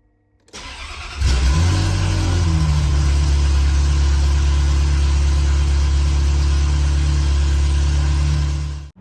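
Ferrari F355's flat-plane V8 starting: a short crank about half a second in, catching a little over a second in with a brief rise in pitch, then settling into a steady idle.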